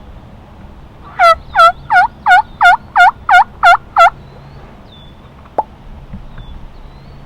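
A series of nine turkey yelps, about three a second, loud and evenly spaced. A single sharp click comes about a second and a half after the last yelp.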